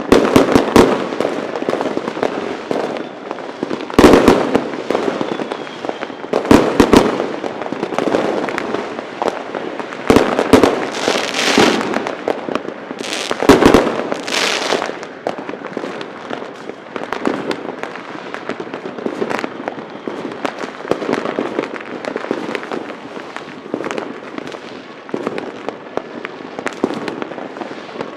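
Fireworks and firecrackers going off: a dense run of sharp bangs over continuous crackling, with several loud reports and bursts of hissing in the middle.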